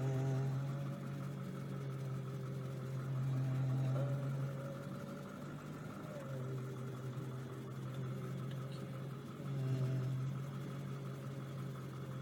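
A motor engine running steadily, a low hum that swells and eases slowly without revving.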